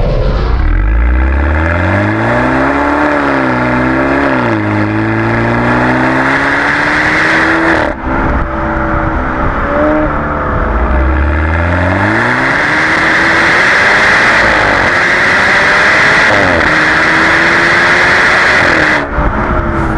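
BMW 428i's turbocharged four-cylinder through a Remus sport exhaust, accelerating. The engine note climbs and falls back several times as it goes through the gears, dips briefly about eight seconds in, then climbs again and holds a steady high note before dropping off near the end.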